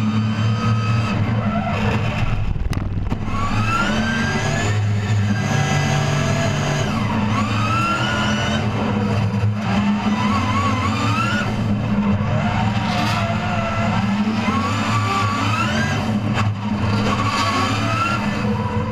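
Drift car's engine heard from inside the cabin, revving hard and repeatedly, its pitch climbing and dropping again every second or two as the throttle is worked through a tandem drift.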